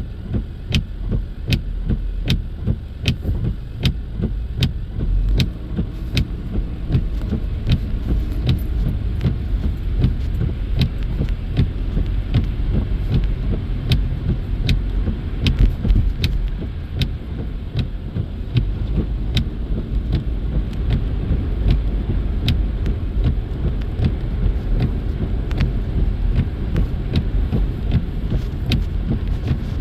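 Car driving, heard inside the cabin: a steady low road rumble under a regular ticking about twice a second.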